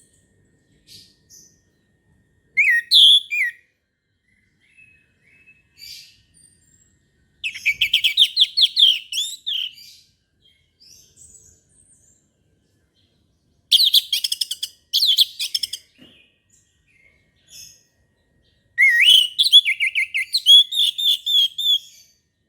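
Orange-headed thrush singing: four loud, rapid warbling phrases with pauses and a few soft notes between them.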